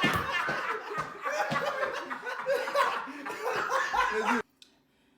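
People laughing, with some voice sounds mixed in, cutting off abruptly about four seconds in.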